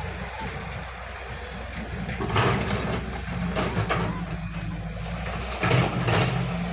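A tractor engine running steadily at low speed, with a few short, louder rushes of noise over it.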